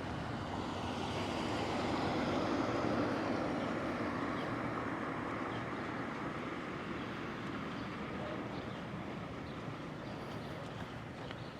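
A vehicle passing on the street: an even rush of tyre and engine noise that builds to its loudest about two to three seconds in, then slowly fades away.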